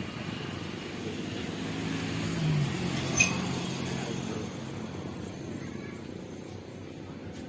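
Boeing 777-300ER jet engines at takeoff thrust, heard from a distance as a steady rumbling noise that swells a little mid-way and then fades slightly. A brief high-pitched chirp about three seconds in.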